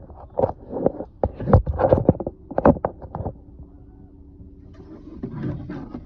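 Indistinct voices in short bursts, then a steady low hum about halfway through, with a little more voice near the end.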